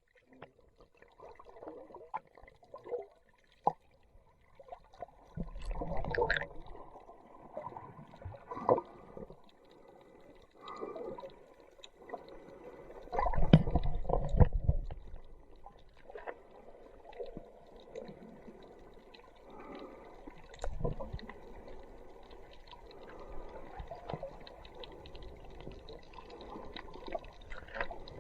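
Muffled sea water sloshing and gurgling, with irregular louder surges; the loudest lasts about two seconds near the middle.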